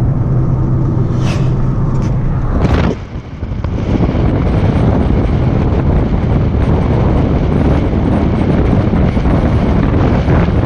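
Car being driven, heard from inside: a steady engine hum under continuous road and wind noise. There is a brief dip about three seconds in, after which the noise is denser and steady.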